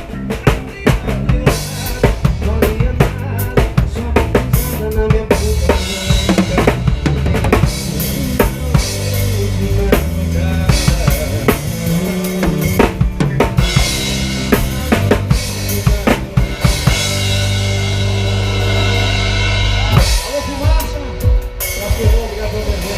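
Live band playing an instrumental passage with the drum kit up front: bass drum, snare and rimshot hits in a steady groove over bass and melodic instrument lines.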